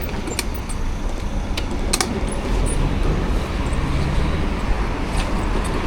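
Road traffic rumble heard from a bicycle riding in city traffic: a steady low roar of passing vehicles and wind on the microphone, with a few sharp clicks and rattles.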